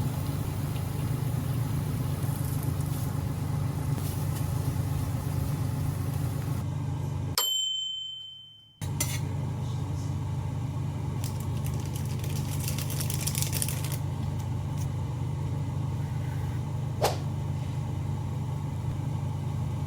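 A steady low mechanical hum, like a motor running. It breaks off about seven and a half seconds in for just over a second, where a brief high beep sounds, then resumes unchanged.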